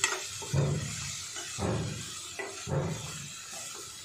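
Onion, tomato and ground spices sizzling in oil in a steel kadhai while a spoon stirs and scrapes through them, in about three strokes a second apart over a steady hiss.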